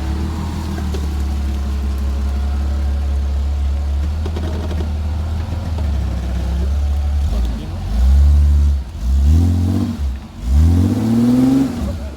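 Off-road 4x4's engine running steadily under load, then revved hard three times in short rising-and-falling bursts during the second half.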